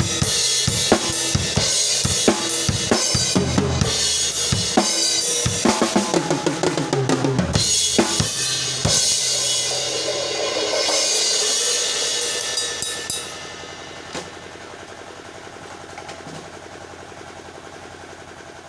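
Isolated drum kit playing a kick-and-snare beat with cymbals, ending in a fill about eight to nine seconds in; the cymbals ring on and fade out over the last few seconds.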